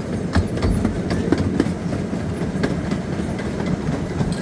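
Park excursion train running along its track, heard from on board: a steady low rumble with irregular sharp clicks of the wheels over the rail joints.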